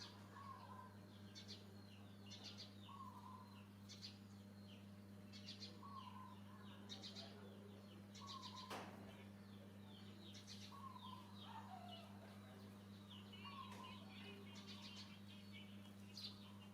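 Faint birdsong: a short curving whistle every couple of seconds and quick high rattling trills in between, over a steady low electrical hum. A single sharp click about nine seconds in.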